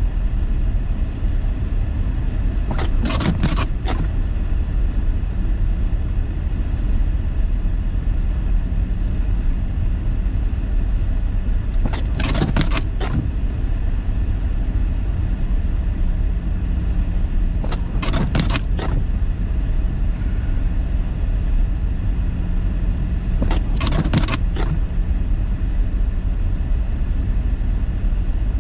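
Steady low rumble of a car driving on snowy roads, heard from inside the cabin. About every five to nine seconds there is a short, sharp cluster of clicks or knocks lasting about a second.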